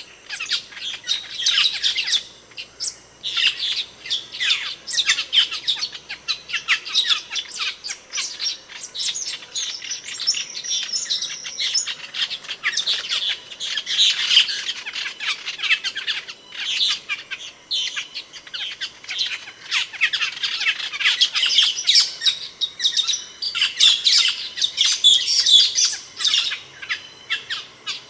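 Asian glossy starling (cucak keling) calling: a continuous run of sharp, high chirps and squeaky notes, with a brief lull about three seconds in.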